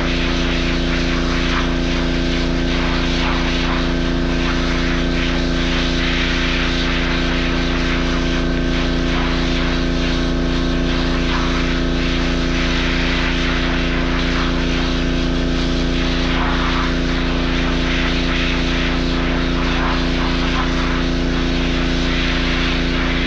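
A motor-driven machine running steadily at constant speed, an even drone with a steady hum.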